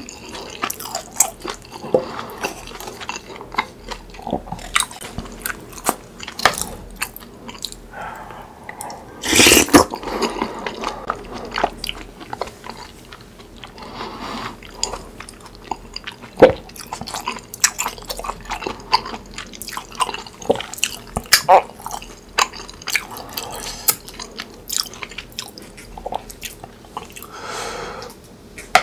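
Close-miked eating of spicy tteokbokki rice cakes and fried snacks: steady chewing and wet mouth sounds with many sharp little clicks. One longer, louder noisy sound comes about nine seconds in.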